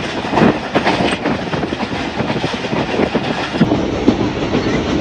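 Passenger train running along the track, wheels clattering over the rail joints under a steady rushing rumble.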